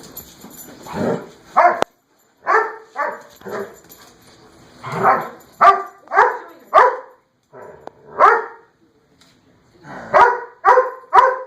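A dog barking repeatedly: about a dozen short, sharp barks in irregular runs with pauses between them, the barks coming quickest near the end.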